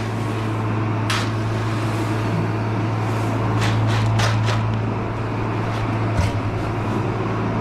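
Steady low hum of farm machinery running at the corn bin, with several short knocks over it.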